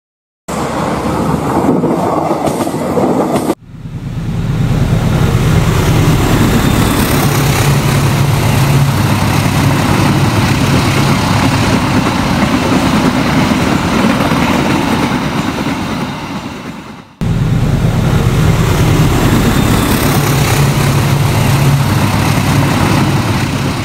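Train running on rails: steady wheel-and-track running noise with a strong low hum, cut off abruptly and resumed twice, about three and a half and seventeen seconds in.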